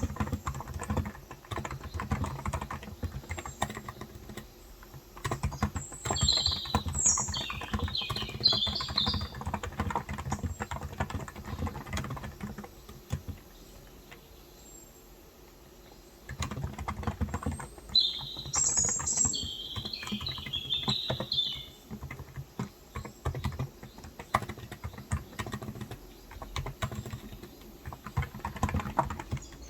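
Typing on a Cox Endeavour contactless (electro-capacitive) 35 g tenkeyless keyboard: a steady run of soft keystrokes that stops for a few seconds in the middle and then resumes. Birds chirp in two brief spells, about six seconds in and again about eighteen seconds in.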